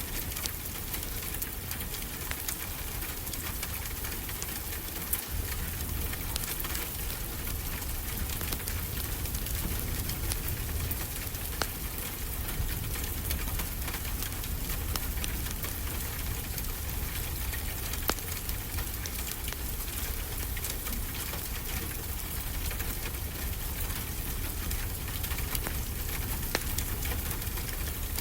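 Steady rain falling, mixed with a crackling wood fire: a constant hiss and low rumble with scattered sharp pops.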